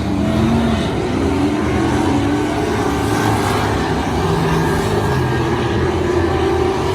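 Stock car engine running hard on a race track, its pitch rising and falling as it speeds up and slows.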